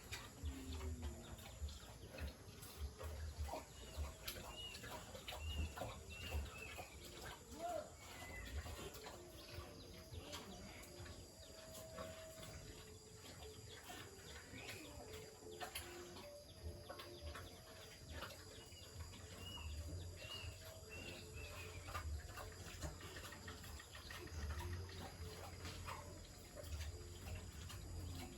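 Faint farmyard ambience: a bird chirping in a short series of rising-and-falling notes twice, over scattered small clicks and knocks and a low uneven rumble.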